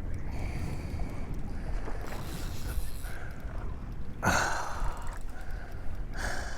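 Steady wind and water noise aboard a boat at sea, with a low rumble, broken by two short louder rushes of noise, one about four seconds in and one near the end.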